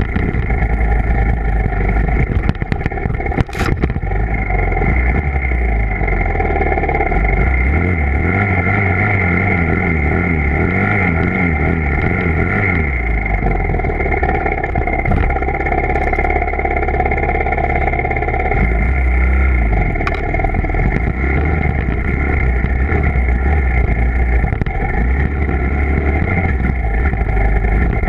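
Dirt bike engine running steadily at an even speed, with an uneven low rumble underneath. There is a single sharp click a few seconds in.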